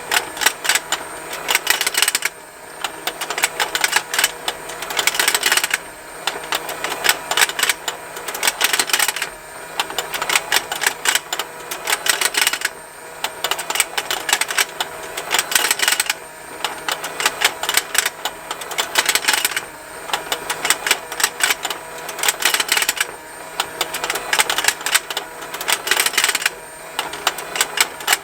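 Plastic fishing lake toy running: a continuous rapid ticking of its plastic gears over a faint steady motor hum, with a burst of louder clicking about every three and a half seconds as the rotating fish snap open and shut.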